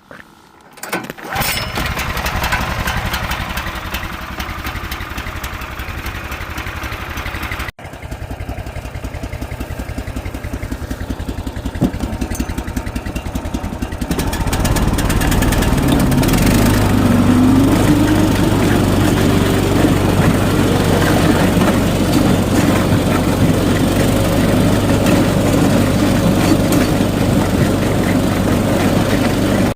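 Small engine running at speed. It drops out for an instant about eight seconds in, then from about fourteen seconds it gets louder and its pitch rises.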